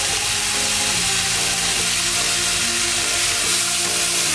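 Beef strips and julienned carrots sizzling in hot oil in a frying pan as they are stir-fried, with background music.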